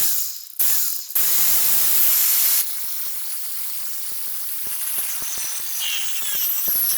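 Power tool cutting into the boat's fiberglass: two short bursts, a louder run from about one to two and a half seconds in, then a lower, steady hissing grind.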